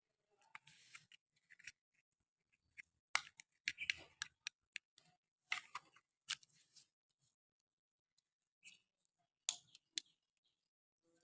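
Small plastic objects being handled close up: irregular sharp clicks and taps mixed with short crinkly rustles, pausing for about two seconds after the middle.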